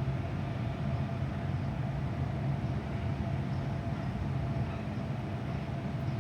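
A train running steadily: a low engine-like drone with a thin steady whine above it.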